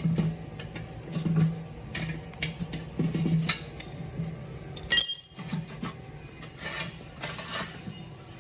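Irregular metallic clanks and knocks of tools and metal parts being handled, with one sharper ringing metal strike about five seconds in.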